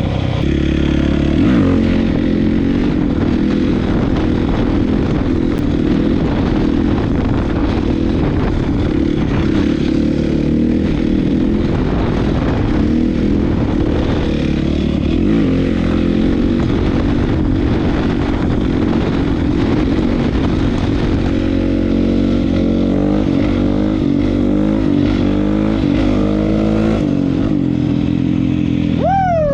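Honda CRF450 single-cylinder four-stroke engine through an HGS aftermarket exhaust, running under way on a dirt ride, its engine note rising and falling with the throttle and climbing in a long rise in the later part.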